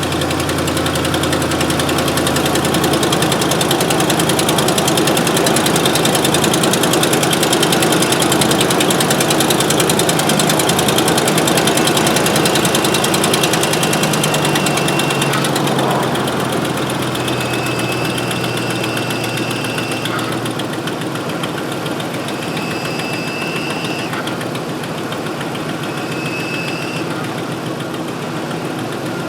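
2005 Ford F-150's engine idling steadily, its power steering freshly refilled with Mercon V. A few brief high whines come and go in the second half.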